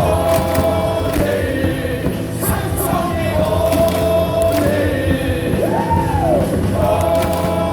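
Cheering-song music over the stadium loudspeakers, with a large crowd singing along in unison.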